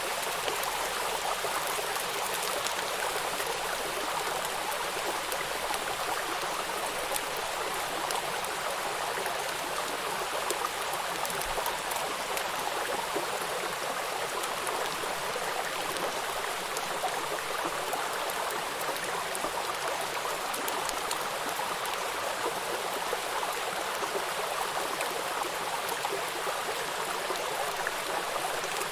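Rain falling on a river: a steady rush of flowing water with the fine patter of raindrops on its surface.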